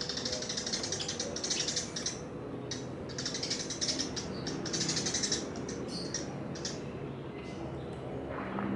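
Eurasian tree sparrows chirping in quick, high-pitched bursts, several runs of rapid chirps with short gaps between them.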